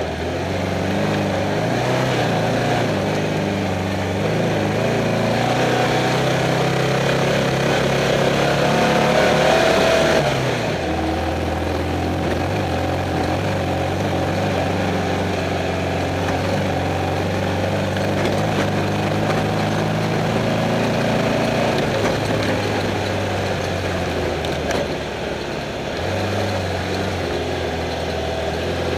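Off-road race car's engine running hard under load, heard from inside the car, over a steady rush of driving noise. Its pitch climbs until about ten seconds in, drops suddenly, then holds fairly steady.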